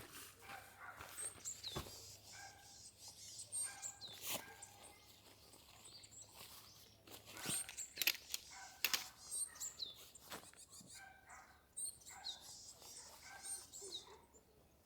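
Small birds chirping again and again, short high calls that drop in pitch, over a quiet forest background with scattered sharp clicks.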